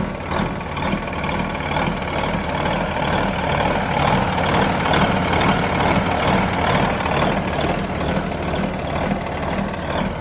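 Kenworth W900 dump truck's Cummins diesel engine idling steadily while warming up after a cold start, a little louder around the middle.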